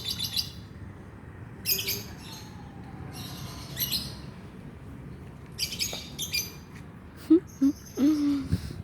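Lovebird chirping in short, high-pitched bursts, about six of them spaced through the few seconds. A few brief low sounds come near the end.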